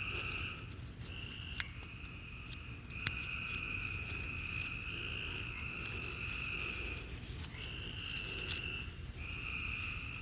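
Frogs trilling: long, steady high-pitched trills of one to four seconds each, overlapping at slightly different pitches with short gaps between. Two sharp clicks come in the first few seconds.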